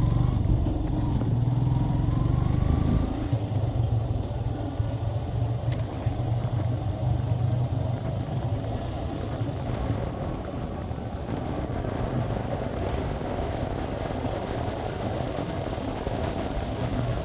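Motorcycle running on the road, a steady engine drone mixed with road and wind noise. The engine note rises over the first three seconds, then settles to an even drone.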